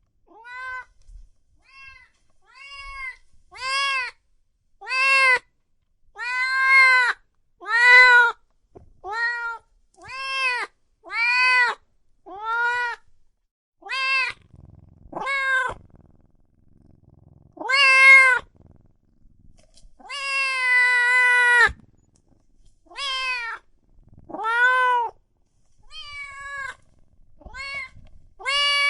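A cat meowing over and over, about one short rise-and-fall meow a second, with one longer drawn-out meow about two-thirds of the way through.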